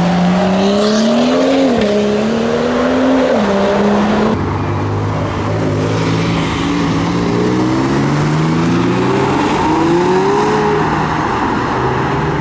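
Performance car engines accelerating. One engine's note climbs and drops twice, as if shifting gear. After an abrupt change about four seconds in, another engine's note climbs slowly in several steps before falling away.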